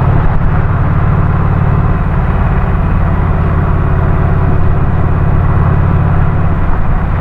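Motorcycle engine running steadily under way, a low, even hum at constant speed.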